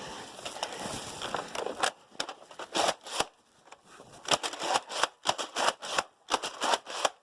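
Rustling noise, then from about two seconds in a quick, irregular series of sharp clicks and knocks, several a second.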